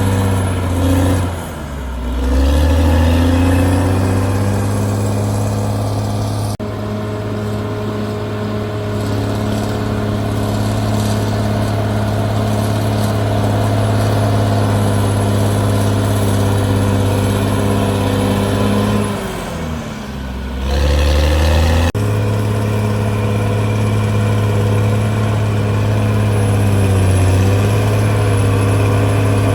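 Diesel engine of a Caterpillar D6R crawler bulldozer running hard and steady. Twice its pitch drops and then climbs back, as the engine is pulled down under load and recovers.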